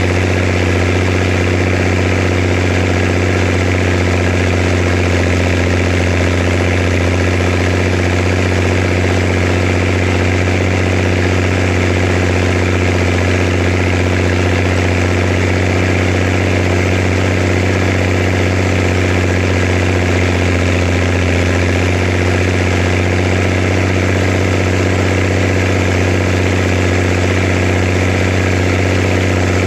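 Zetor Crystal 16145 tractor's six-cylinder diesel engine running steadily at a constant speed.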